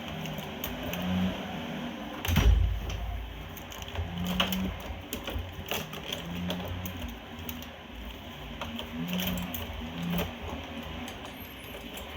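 Small metal clicks and taps of hands working the pilot tube and its fitting into a Coleman furnace's gas valve, with one louder knock about two and a half seconds in.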